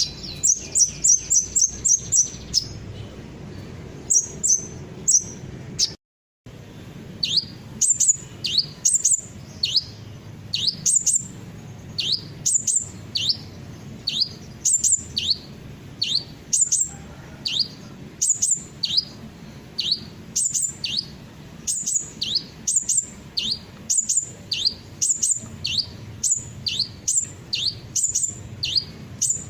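Sunbird song: high, thin chirps, at first a fast run of quick notes, then, after a brief break, a two-note phrase repeated about once a second, an upward-sweeping note followed by a higher, sharper one.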